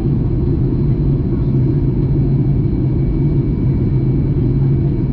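Steady low cabin rumble of a Boeing 737 MAX 8 in flight, the drone of its CFM LEAP-1B engines and airflow over the fuselage heard from inside the passenger cabin, with a constant low hum.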